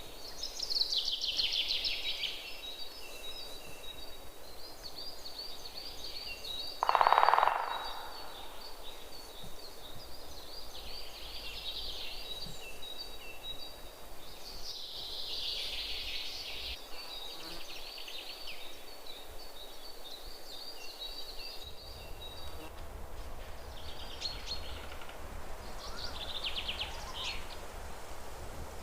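Several wild birds calling, with repeated high chirps and twittering trills throughout. One loud, lower sound about seven seconds in stands out above them.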